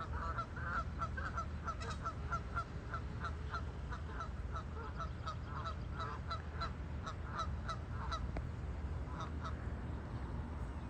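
Geese honking back and forth across the water in a rapid stream of short calls, thinning out over the last few seconds, over a low steady background rumble.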